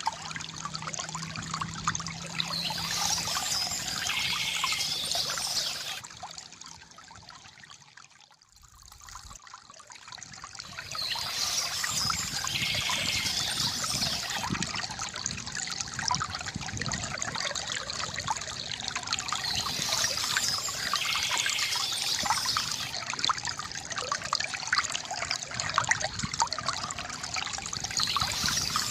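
Water trickling and gurgling from a bamboo fountain, with birds chirping every several seconds. About seven seconds in, the sound fades almost out, then swells back a few seconds later.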